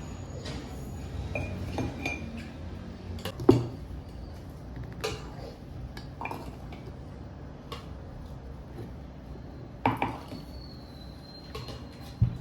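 Kitchen clatter of dishes and cutlery: irregular clinks and knocks of plates, glass and utensils, the loudest knocks about three and a half seconds in and near ten seconds.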